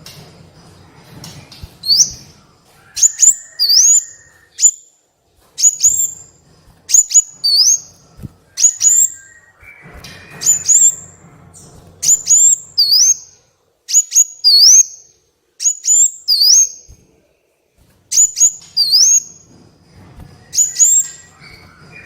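Small sunbird-type songbird, the 'kolibri' of Indonesian bird-keeping, calling over and over: sharp, high chirps that dip and swing back up, in quick clusters of two or three about once a second. A faint low hum runs underneath.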